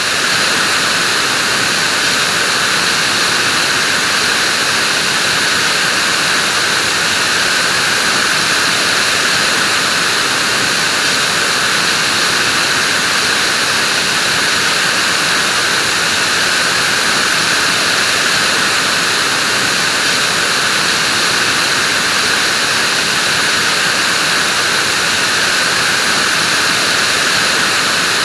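Vacuum cleaner running steadily, a constant airy rush that holds the same pitch and level throughout.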